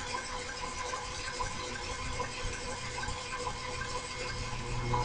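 A small machine tool, likely the milling machine, running steadily: an even motor hum with a faint tick repeating at a regular pace.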